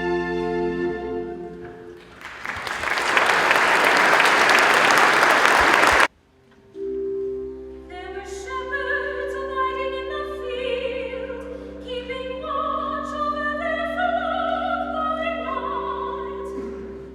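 The last notes of a classical instrumental piece fade, and an audience applauds for about four seconds until the sound cuts off abruptly. After a brief gap a new piece begins: steady held chords of accompaniment under classical singing.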